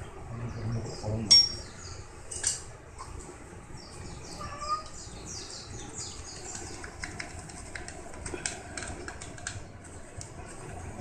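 Small birds chirping, with scattered light clicks and one sharp click about a second in.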